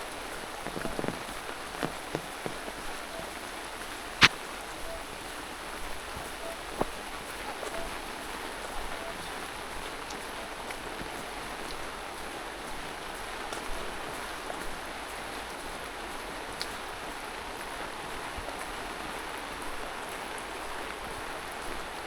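Steady rain falling, an even hiss with scattered drop taps and one sharp click about four seconds in.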